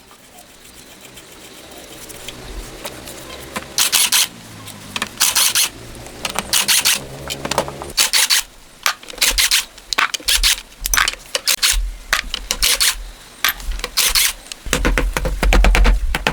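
Repeated rubbing and scraping strokes, irregular and each under a second long, with a faint steady hum in the first half.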